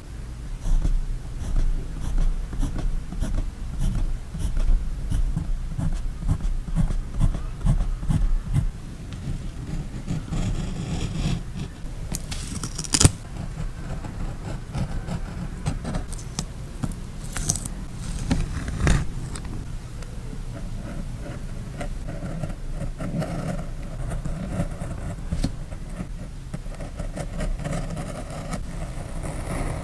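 Close-up journaling craft sounds: paper and sticker sheets being handled, with scraping, rustling and many small clicks of tape and tools on the page. There are sharp clicks about 13 and 19 seconds in.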